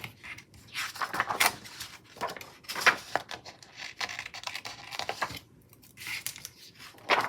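Paper decorations being peeled off a backing and pressed onto a planner page: a run of short crinkly rustles, peels and light taps.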